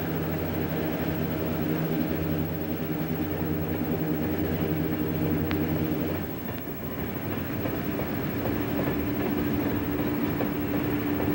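Train running on track: a steady low engine hum over rumbling wheel noise with faint clicking, the hum giving way after about six seconds to a steadier, higher tone.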